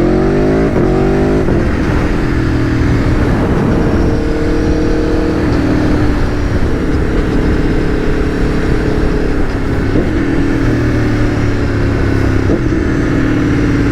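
Aprilia Tuono V4 1100's V4 engine under way, rising in pitch as it accelerates for about the first second, then holding a fairly steady pitch with small shifts.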